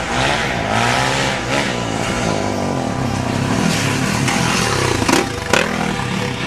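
Motorcycle engine running under way, its pitch rising and falling as the throttle is worked, with two sharp knocks about five seconds in.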